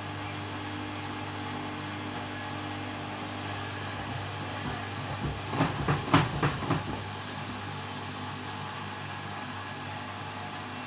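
LG washing machine running with a steady motor hum. About five seconds in comes a short run of several loud clunks.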